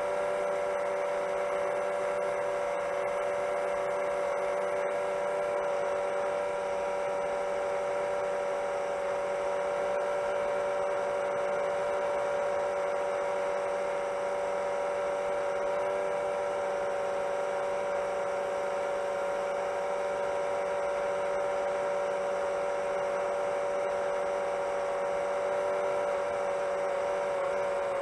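Motors and propellers of a 7-inch long-range FPV quadcopter at steady cruise: an even, multi-tone whine that wavers and dips slightly in pitch near the end.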